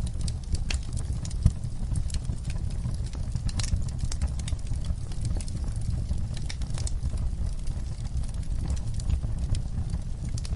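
Campfire burning, with a low steady rumble and irregular sharp crackles and pops of the wood.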